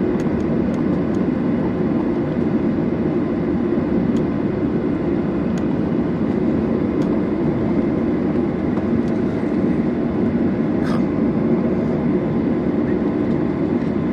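Steady low cabin rumble of a Boeing 737-800 on the ground before takeoff, from its engines and air-conditioning, with a few faint clicks.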